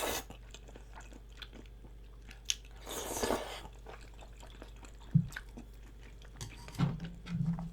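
A person eating close to the microphone: chewing and biting with small wet mouth clicks, and a short noisy slurp-like sound about three seconds in.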